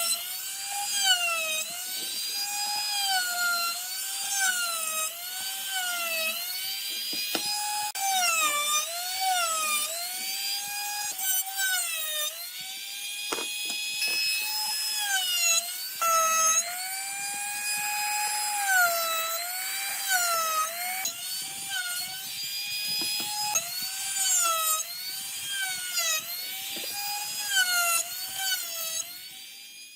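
A high-speed power tool whining in wood, its pitch sagging each time the bit or blade bites under load and picking back up every second or two.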